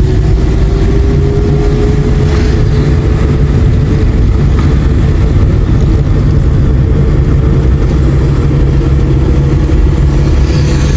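Motor vehicle engine and road noise heard while on the move, loud and steady, the engine note rising slowly as it gathers speed.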